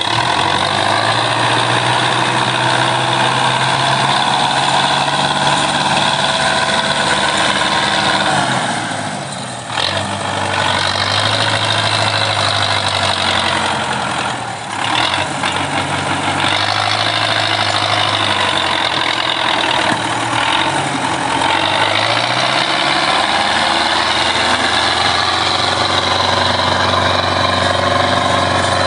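Belarus 510 tractor's diesel engine running steadily, its speed dropping and picking back up about ten seconds in, again around fifteen seconds, and rising once more a little past twenty seconds.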